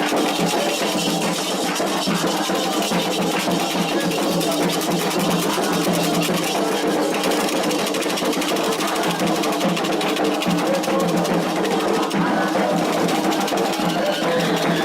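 Candomblé ritual music: drums and other percussion playing without a break, with voices singing.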